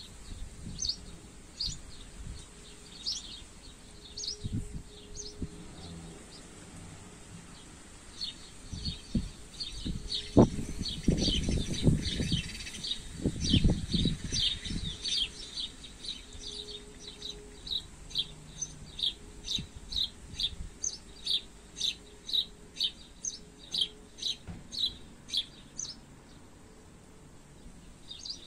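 Small birds chirping in short, repeated high notes, coming about one a second at first and more quickly later on. Wind buffets the microphone with low rumbling gusts about a third of the way in.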